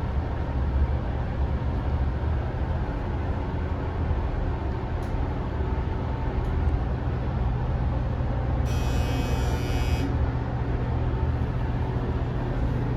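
Steady low hum and rumble of a moving elevator. A brief high-pitched hiss about nine seconds in lasts just over a second.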